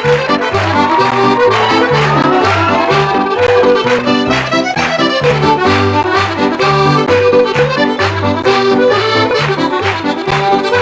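Piano accordion playing a lively traditional tune, its melody running over a steady, regular accompaniment of bass notes alternating with chords.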